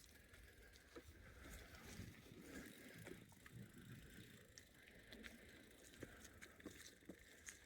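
Bicycle riding along a forest track, faint: a low rumble of rolling tyres with scattered small clicks and crackles.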